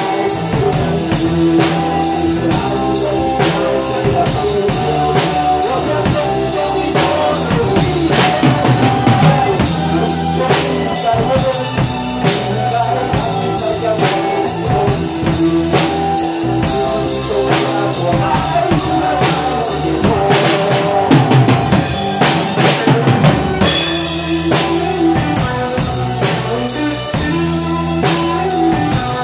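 Drum kit played to a rock backing track, with no singing: a steady beat on cymbals, snare and bass drum, getting busier with fills about 8 seconds in and again about 20 seconds in.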